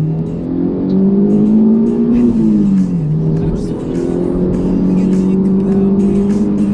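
Honda S2000's F22C inline-four engine pulling under acceleration, its pitch climbing, dropping for a gear change about two and a half seconds in, then holding steady as the car cruises, over road noise.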